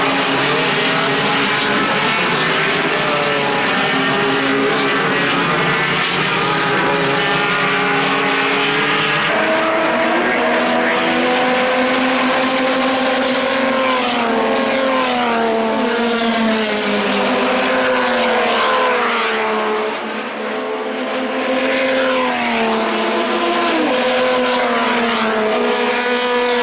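Race car engines running hard, their pitch repeatedly climbing and dropping with acceleration, braking and gear changes. The sound changes abruptly about nine seconds in, as if a different car or viewpoint takes over.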